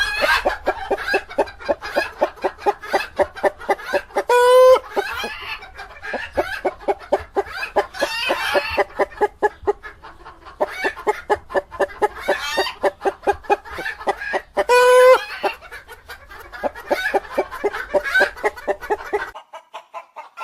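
Chickens clucking in quick, continuous succession, several clucks a second, broken twice by a short, loud, held squawk. The clucking stops shortly before the end.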